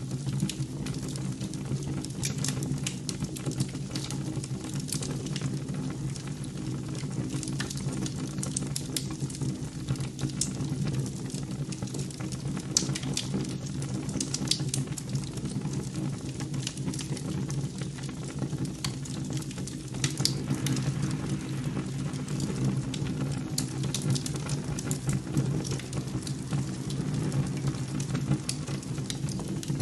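A steady low hum with many scattered crackling clicks throughout.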